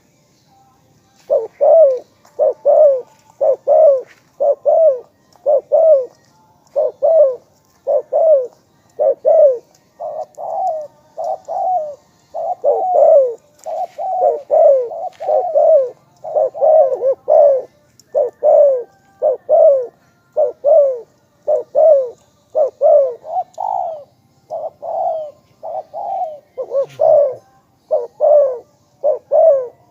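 Spotted dove cooing in a long unbroken series of short, slightly falling notes, about one and a half a second, starting about a second in.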